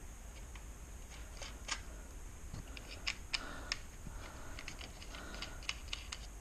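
Scattered light clicks and taps of small parts being handled, with a few sharper clicks in the middle.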